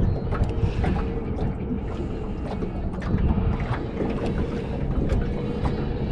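Wind buffeting the microphone in a low rumble, with frequent small clicks and taps and a faint steady hum underneath.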